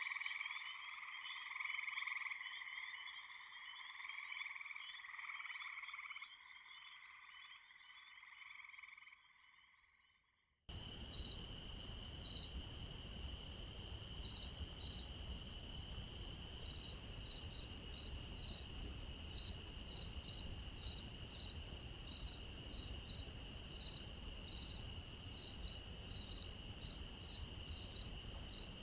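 A chorus of frogs croaking fades away over about ten seconds, then cuts abruptly to a steady chorus of insects: a continuous high trill with regular, evenly spaced chirps above it.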